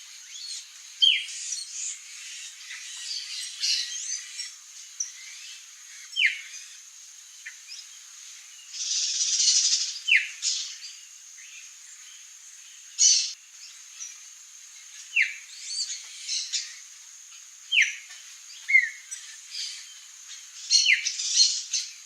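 Songbirds calling: short, sharp falling notes repeated every two to three seconds over scattered higher chirps, with a steady high-pitched whine, like an insect, underneath.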